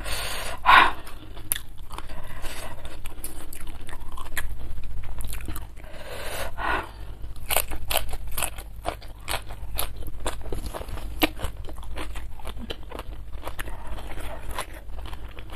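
A person biting and chewing crisp raw vegetables with rice, close to the microphone: many quick, sharp crunches with wet chewing between them.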